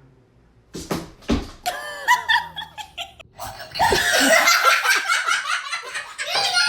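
A couple of sharp knocks about a second in, then people laughing hard, the laughter growing louder and fuller from about four seconds in.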